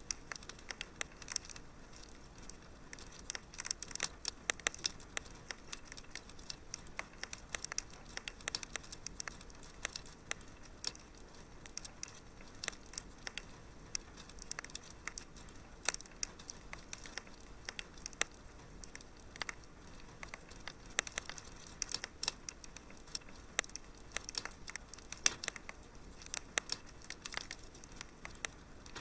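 Wood fire crackling, with frequent irregular sharp pops and snaps over a faint steady hiss.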